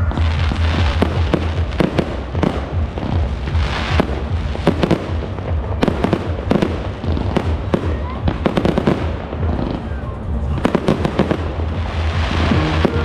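Fireworks display: shells bursting in many irregular bangs, with thicker bursts of crackle a few seconds in and near the end, over loud music with a steady heavy bass.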